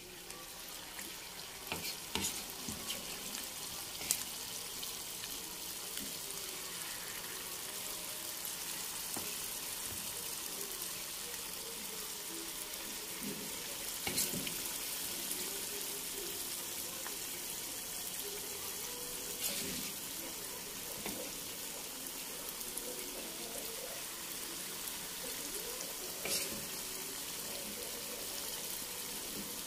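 Tape (fermented cassava) batter fritters frying in hot oil in a pan: a steady sizzle that builds over the first couple of seconds as spoonfuls of batter go into the oil. A few sharp clicks stand out now and then.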